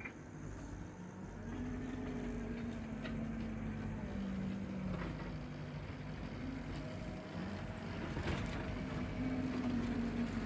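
Tractor engine running steadily as it drives a power rake over rough ground, its hum shifting a little up and down in pitch with the load. One sharp click about eight seconds in.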